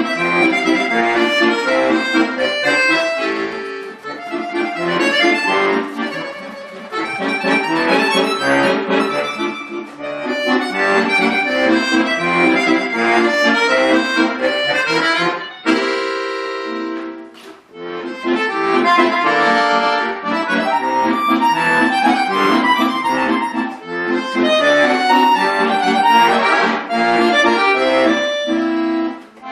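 Bayan (Russian button accordion) playing a solo piece in quick runs of notes, with a held chord about halfway through and a brief break before the playing picks up again.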